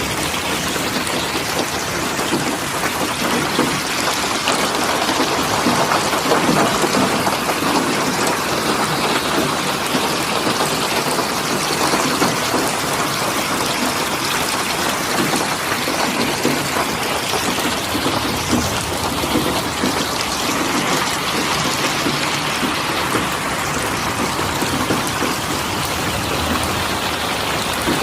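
Steady rain falling, a dense even hiss of drops with a fine pattering texture.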